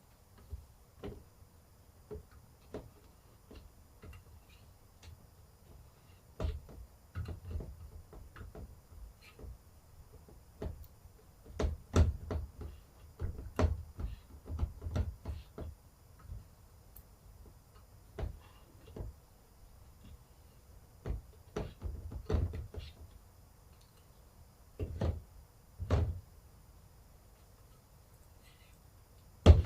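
Irregular knocks, taps and low thuds of objects being handled and set down during silk-screen plate making, coming in scattered clusters, busiest in the middle.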